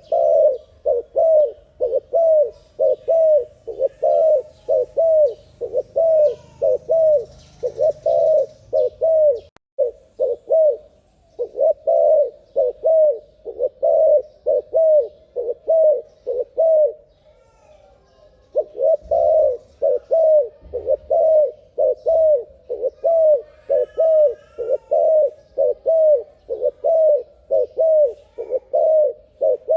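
Spotted dove (terkukur) coos from a sped-up call recording, short notes repeated about twice a second in a steady run, with a pause of a second or two about two thirds of the way through.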